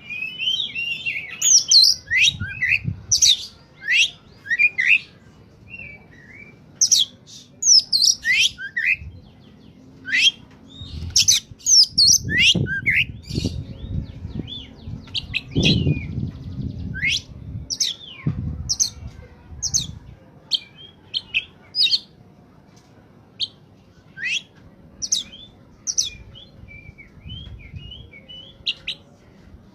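Oriental magpie-robin (kacer) singing hard: a fast run of short, sharp chirps and quick up-and-down whistled notes. Low thuds and rumbles come and go through the middle stretch.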